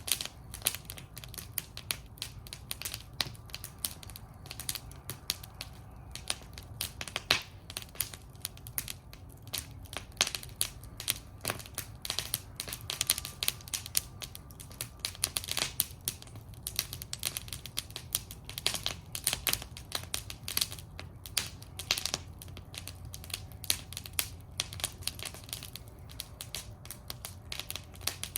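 Wood fire burning in a metal fire bowl, crackling and popping in a steady stream of irregular sharp snaps over a low rumble of flame.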